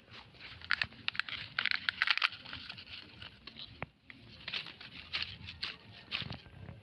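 Plastic litter crinkling and rustling in quick, irregular crackles as it is picked up and handled. A busy stretch in the first three seconds, a short lull, then more crackling.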